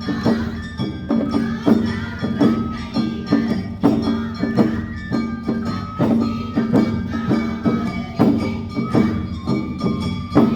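Awa Odori accompaniment band playing the dance music: drums and a clanging kane hand gong beat a steady, brisk two-beat rhythm, with held melodic tones over it.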